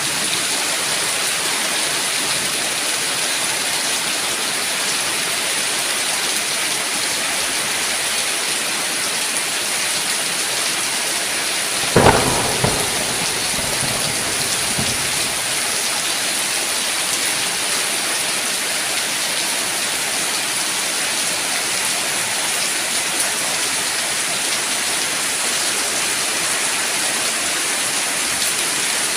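Steady heavy rain, with one sudden crack of thunder about twelve seconds in that rumbles on for a couple of seconds.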